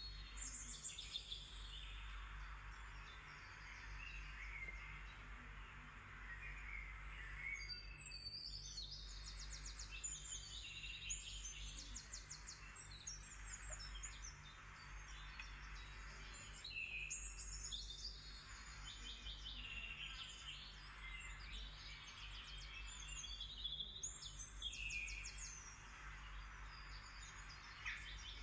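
Birds chirping and trilling: many short, rapidly repeated calls and quick pitch glides, with a steady low hum underneath.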